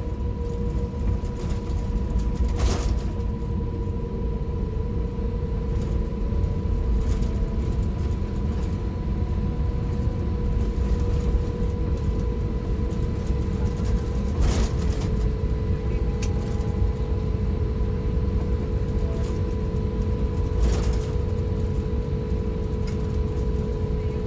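Steady low rumble in the cabin of an Airbus A350-1000 taxiing after landing, with a steady hum and whine over it. A few faint clicks come at about 3, 14 and 21 seconds in.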